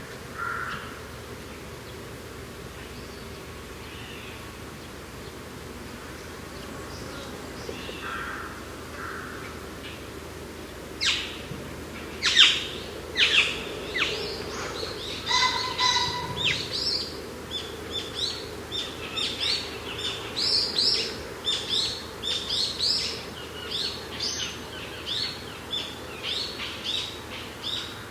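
Birds chirping and singing over a steady rush of wind. A few soft calls at first, then from about eleven seconds in a busy run of quick, high chirps.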